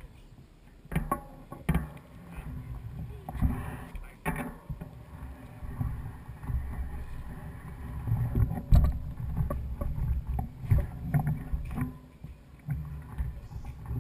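Mountain bike riding noise: a low rumble on the microphone with irregular knocks and rattles, the loudest cluster about nine seconds in.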